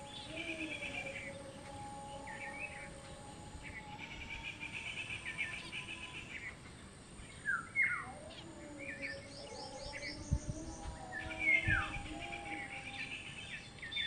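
Small birds chirping and twittering in quick runs, with sharp falling calls about eight and twelve seconds in. Faint held lower tones sound underneath, and a couple of low thumps come near the end.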